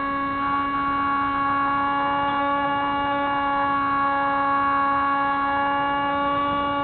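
Spyhawk model plane's electric motor and propeller in flight, a steady whine with a held pitch and a row of evenly spaced overtones.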